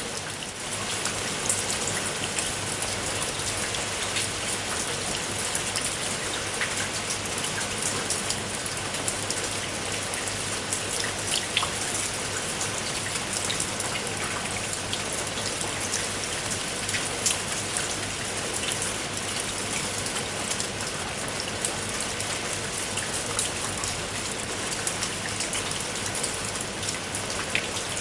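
Steady rain: a dense, even hiss with many sharp individual raindrop hits scattered through it.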